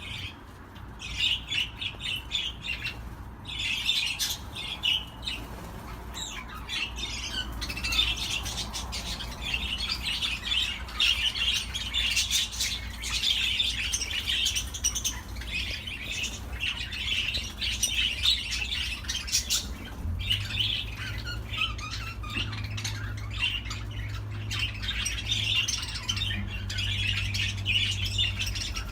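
Budgerigars chattering and warbling without pause, a dense stream of quick chirps and squawks. A low steady hum runs underneath and gets louder about two-thirds of the way in.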